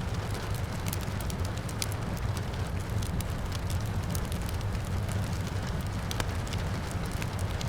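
Wood fire crackling and popping in a fireplace, with many sharp, irregular pops over a steady low rumble, and a soft hiss of rain behind it.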